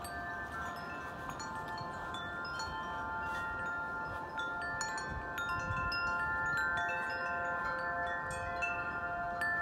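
Wind chimes ringing in gusty wind, many overlapping long tones sounding one after another, with wind rumbling low underneath.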